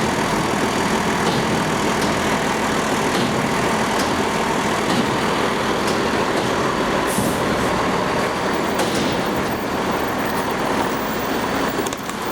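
Recycling truck running, a steady, loud engine noise.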